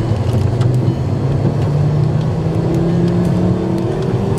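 Car engine and road noise while driving, the engine's pitch rising steadily as the car speeds up.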